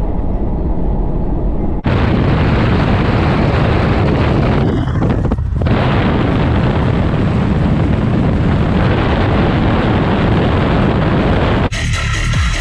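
Loud, steady rushing noise of wind on the microphone with road rumble from a moving vehicle. It cuts abruptly about two seconds in, and again just before the end, as the shot changes.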